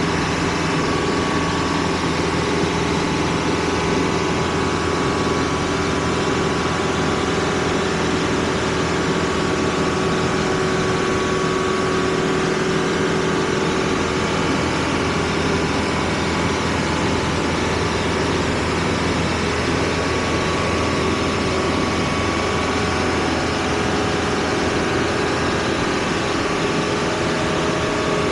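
Vehicle engine running steadily with a constant hum, heard from inside the cab.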